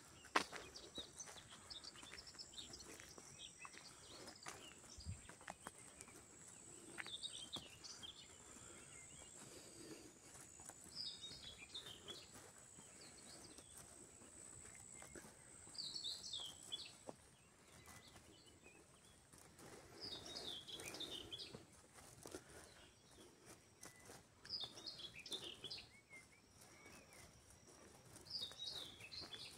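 A songbird singing short chirpy phrases, faint, repeated about every four to five seconds, over a steady high thin tone. A single sharp click just after the start.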